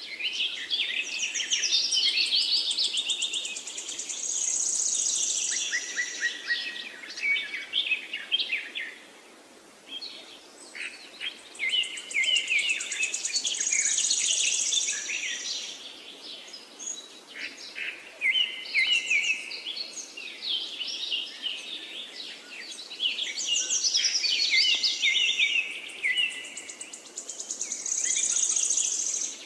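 Parakeets chirping and warbling together in a busy chorus of quick high chirps and rapid trills, with a short lull about ten seconds in.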